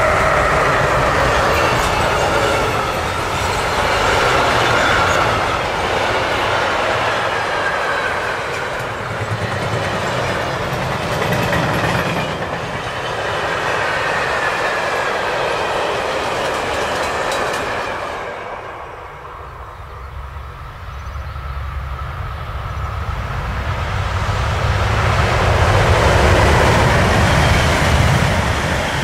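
A long freight train of covered sliding-wall wagons rolling past at speed: wheels clattering over the rails, with a thin squeal of wheels. About two-thirds of the way through it gives way to a red electric regional multiple unit, which comes up and passes loudest near the end.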